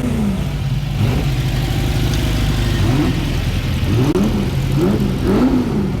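Car engine idling with a steady low hum, blipped several times: short revs that rise and fall in pitch, coming in quick succession over the last two seconds.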